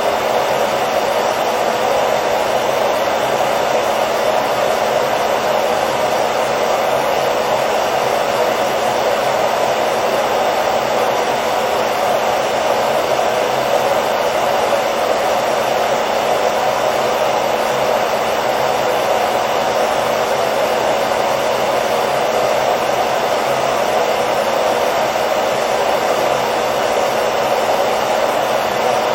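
Hair dryer running steadily: a constant blowing whoosh with a faint motor hum, used as white noise to lull a baby to sleep.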